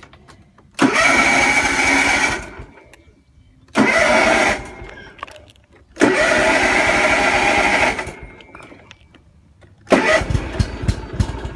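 Lawn mower engine being cranked in three bursts of one to two seconds each without starting, then catching about ten seconds in and running unevenly.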